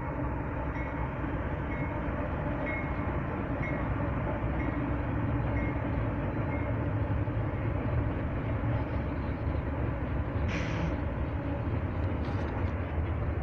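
Freight train rolling past: a steady rumble of wheels and engines that grows slightly louder, with a faint high beep repeating about once a second during the first half.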